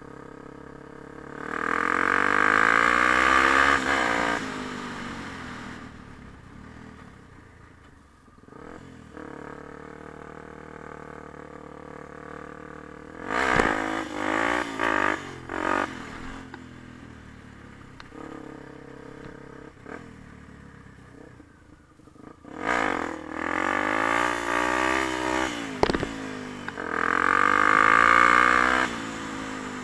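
Yamaha TT-R250 dirt bike's single-cylinder four-stroke engine being ridden, revving up and easing off: three loud spells of hard acceleration with quieter, low-rev running in between.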